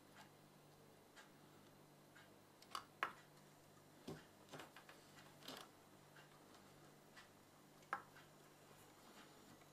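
Near silence with faint, irregular small clicks and taps, the loudest about three seconds in and near the end, over a low steady hum.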